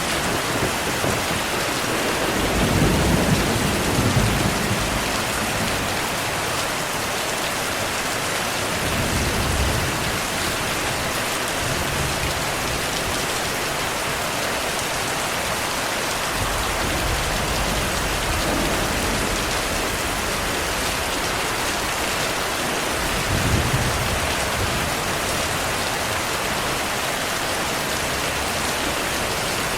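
Heavy rain falling steadily, with thunder rumbling deep and low several times; the loudest rolls come about three to four seconds in and again about two-thirds of the way through.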